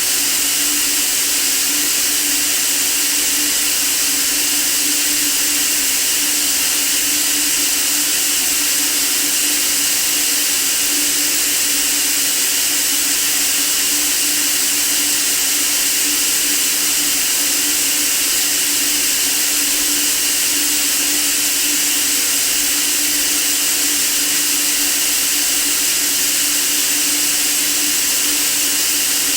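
Steady white noise for sleep: an even, unchanging hiss, strongest in the treble, with a steady low hum underneath.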